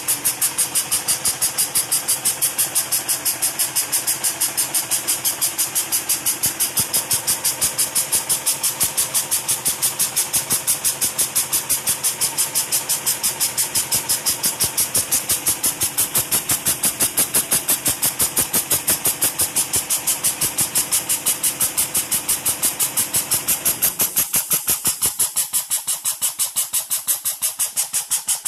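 Small homemade steam engine running steadily, each exhaust stroke giving off a hissy puff in a fast, even beat. The lower hum drops away about 24 seconds in while the puffing carries on.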